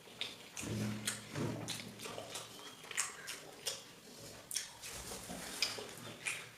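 Close-up eating sounds: wet chewing and lip smacks in an irregular run of short clicks, with a brief low hum about a second in.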